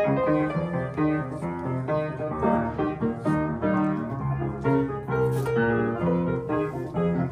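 Solo piano playing a continuous run of notes and chords.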